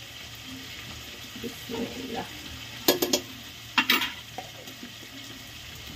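Onions, tomatoes, green chillies and freshly added ginger-garlic paste sizzling steadily in hot oil in an aluminium pressure cooker. A few sharp clicks come about three and four seconds in.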